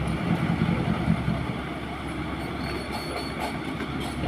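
Diesel dump truck engine running, a steady low rumble with rattling from the truck.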